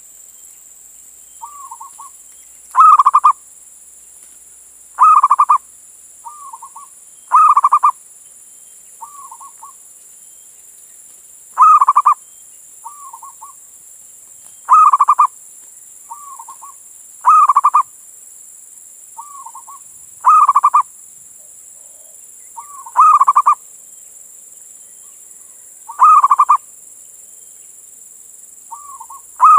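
Male zebra dove (perkutut) cooing: about ten loud coo phrases, one every two to three seconds, with a softer, shorter note between most of them, over a steady high hiss.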